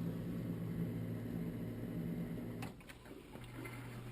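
Miele G841SC Plus dishwasher starting a quick program: a steady low machine hum with water, which stops with a click about two-thirds of the way through, followed by a single lower steady hum.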